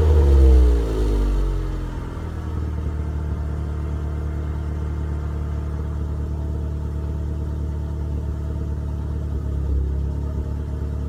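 Mazdaspeed Protege's turbocharged 2.0-litre four-cylinder through a straight-piped 2.5-inch turbo-back exhaust with only a Greddy Evo muffler, no cats or resonators: the revs fall away over the first couple of seconds and it then settles into a steady, low idle.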